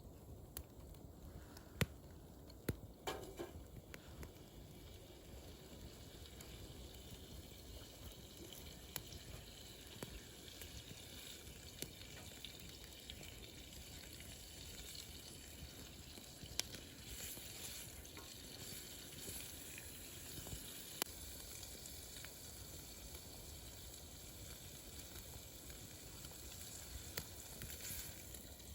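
Wood fire burning in a fire pit: a steady hiss with scattered crackles and pops, and a few sharper snaps in the first few seconds.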